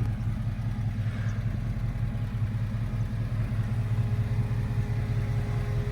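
Tuned 350 small-block Chevrolet V8 with alloy heads idling steadily.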